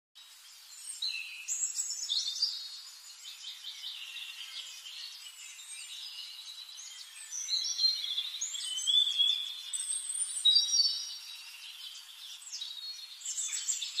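Birds chirping and singing: a dense, overlapping mix of short whistles, chirps and rapid trills, loudest from about eight to eleven seconds in.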